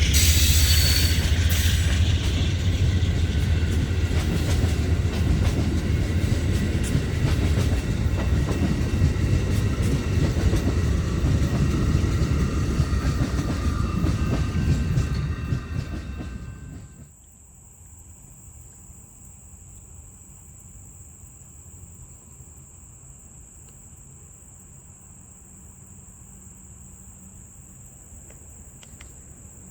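Train passing on the rails: a steady, loud rumble of wheels with some clickety-clack, which cuts off suddenly a little past halfway. After that, a steady high-pitched insect drone.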